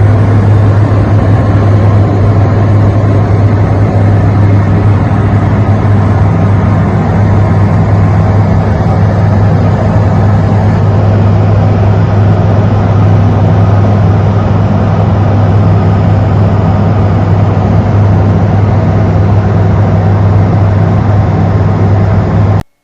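Light aircraft's piston engine and propeller droning steadily at cruise, heard inside the cockpit. It cuts off suddenly near the end.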